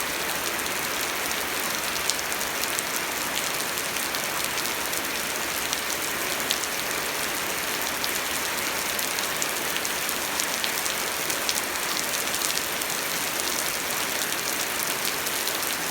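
Steady rain falling, an even hiss with many sharp little drop taps scattered through it.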